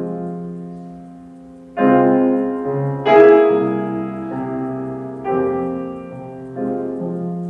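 Solo piano playing an interlude between verses of a gospel spiritual: sustained chords struck one after another, each left to ring and fade before the next.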